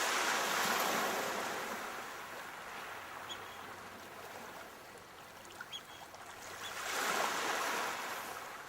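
Sea waves breaking and washing up the shore: one wave surges at the start and fades over a few seconds, and the next rolls in about seven seconds in.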